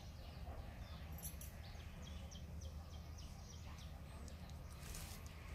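Faint outdoor ambience: a small bird chirping in a quick series of short high notes over a low steady rumble.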